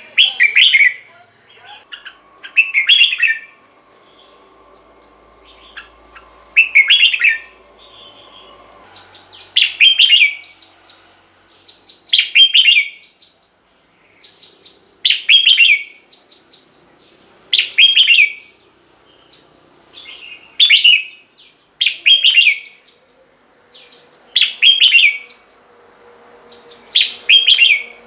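Red-whiskered bulbul singing: a short, bright song phrase repeated about every two and a half seconds.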